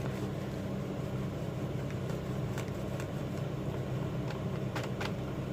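Steady low machine hum, with a few faint short clicks.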